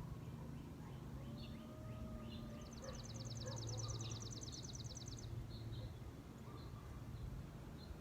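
Songbirds calling: a fast, even, high trill lasting about three seconds in the middle, among scattered short chirps, over a steady low hum.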